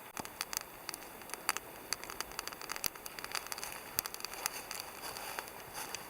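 Wood campfire crackling: irregular sharp pops and snaps over a faint hiss.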